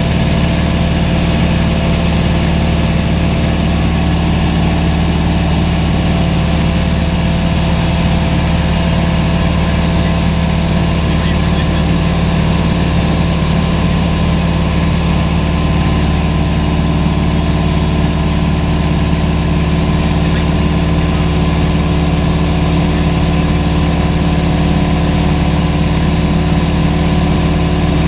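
Steady drone of a propeller aircraft's engine, holding one even pitch throughout.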